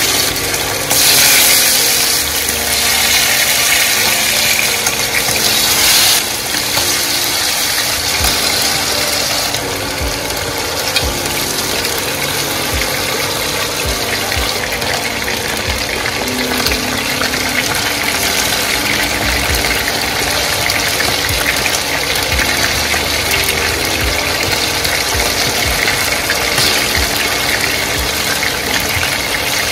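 Chicken wings frying in hot oil in a nonstick frying pan: a steady, loud sizzle and crackle, loudest and brightest in the first few seconds, then settling into an even sizzle.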